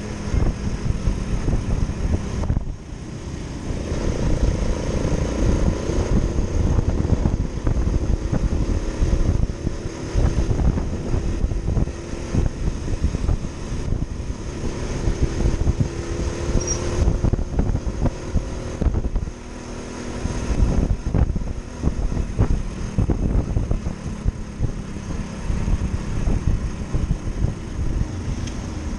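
Motorcycle engine running under way, its pitch rising and falling as the throttle opens and closes, with a couple of brief drops in loudness.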